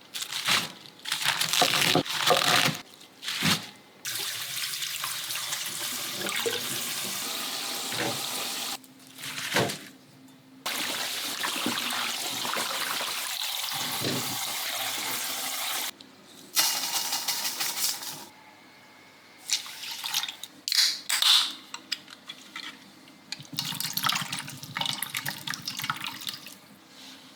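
Kitchen tap running into a sink in two long steady stretches, with shorter irregular splashes and knocks before, between and after them.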